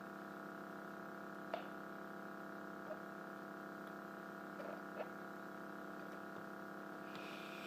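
Faint steady electrical hum made of several even tones, with a few light clicks about one and a half, three and five seconds in.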